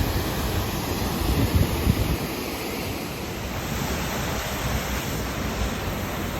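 Steady rush of a waterfall and river water, with wind buffeting the microphone in low gusts, strongest about one to two seconds in.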